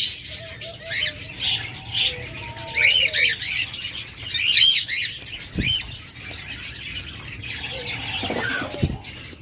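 Caged cockatiels chirping in short, arching calls that come in clusters about a second, three seconds and five seconds in, with two dull thumps later, one near the middle and one near the end.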